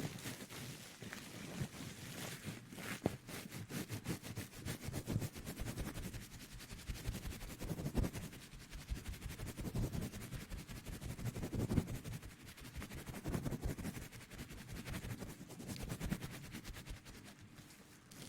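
Soft, crackly ASMR rustling, swelling and easing every two or three seconds.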